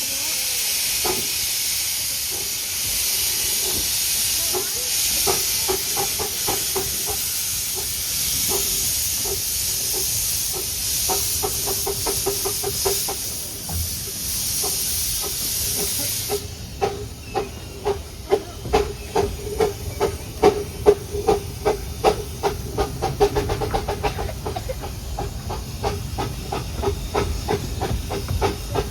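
UK steam locomotive working hard with its wheels slipping: rapid, quickening exhaust beats under heavy steam hiss. About halfway through, the hiss cuts off suddenly, leaving a fast, uneven string of sharp exhaust beats.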